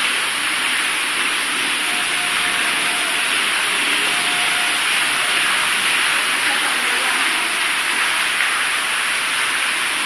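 Heavy rain and running water: a steady, even rush that neither builds nor breaks off.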